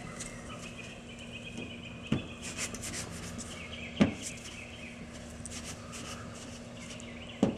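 Clay bar being rubbed by hand over paint overspray on a car's body panel, giving a wavering squeak, with three sharp knocks about two, four and seven seconds in.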